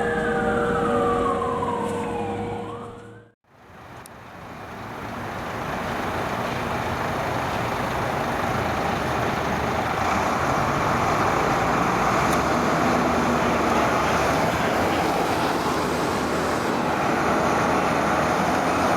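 Fire truck siren winding down in pitch over a steady horn-like tone, cut off about three seconds in. Then a rougher siren and heavy truck noise swell up and stay loud.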